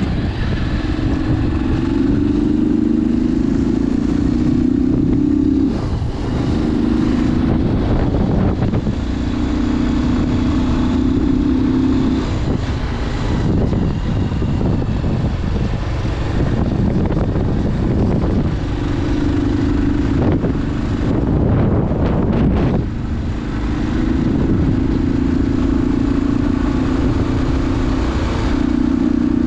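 Bajaj Pulsar 180 motorcycle's single-cylinder four-stroke engine running with a K&N air filter fitted. The steady engine note holds for stretches and drops away several times, around six, eight, thirteen to eighteen and twenty to twenty-three seconds in, as the throttle changes.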